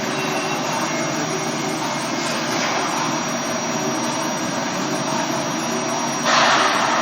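Okuma GENOS M660-V vertical machining center cutting metal: a steady machining noise with a constant high spindle whine, and a louder burst of hiss about six seconds in.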